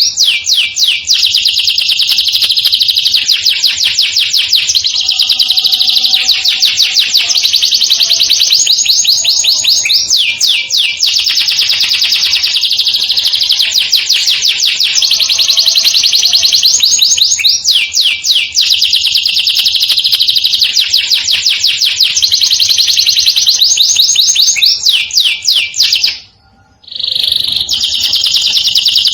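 Domestic canary singing long, rapid rolling trills with quick sweeping notes, almost without pause; the song breaks off briefly near the end and then resumes.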